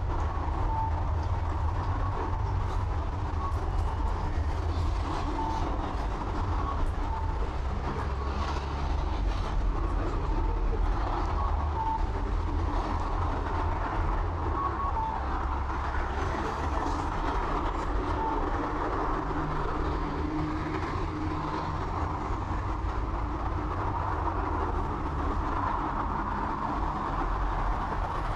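Train running: a steady low rumble with wheel-on-rail noise, and short faint high tones now and then.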